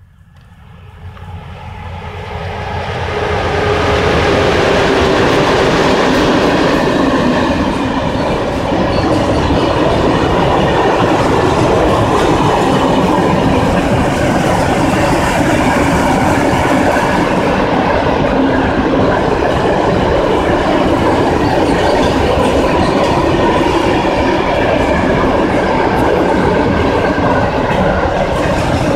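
ET22 electric locomotive hauling a train of open coal wagons passing close by. The sound rises over the first few seconds as the locomotive nears, then stays as a steady, loud rumble and clatter of wagon wheels on the rails.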